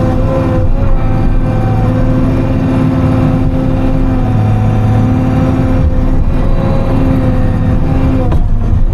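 Timberjack 608 logging machine's diesel engine running steadily, heard from inside the cab, with a brief dip in its pitch near the end.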